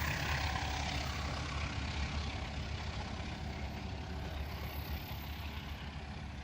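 Train rumbling past and moving away, a steady noisy rumble that slowly fades.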